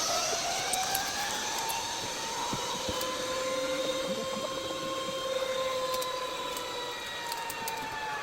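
Zipline trolley pulleys whining along the steel cable. One long whine rises over the first second, holds, and then slowly falls as the rider loses speed.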